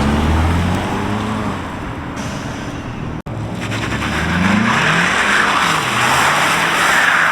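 Mercedes E300's turbocharged four-cylinder engine, fitted with exhaust cutouts, revving up and down through its exhaust. The sound comes as two short clips joined by an abrupt cut about three seconds in.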